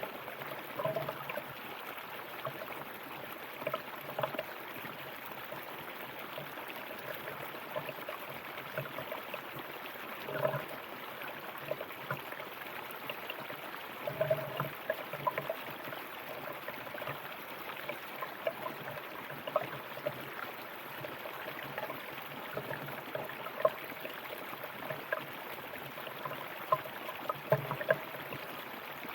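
River water flowing over rocks: a steady rush with frequent small gurgles and splashes.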